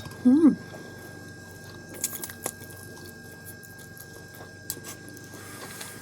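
A short, pitch-bending "mmm" from the eater, then mouth sounds of chewing noodles, with a few sharp smacks or clicks about two seconds in. A faint steady high whine runs underneath.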